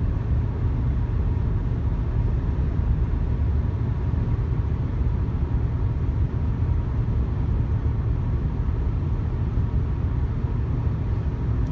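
Steady low rumble of road and engine noise inside a moving Honda Odyssey minivan.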